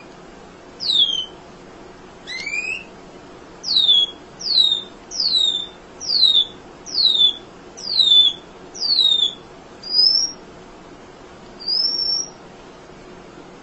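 Emprit, a small Indonesian munia, calling in a steady run of thin, high whistled notes. Each note slides quickly downward, about one every three-quarters of a second through the middle of the stretch. A few shorter notes rise instead, one early and two near the end.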